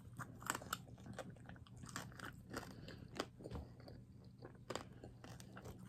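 A person chewing food close to the microphone: many short, faint crunches and mouth clicks.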